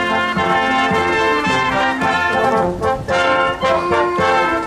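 Brass band playing, with trumpets and trombones sounding held chords that change every half second or so.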